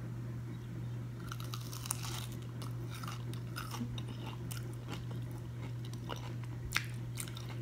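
Close-up chewing of a mouthful of breaded deep-fried avocado, with scattered small crunches from the crisp coating. A steady low hum runs underneath, and there is one sharper click near the end.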